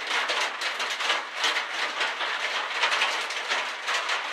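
Rain pattering on the shack's roof: a dense, steady crackle of countless small drops.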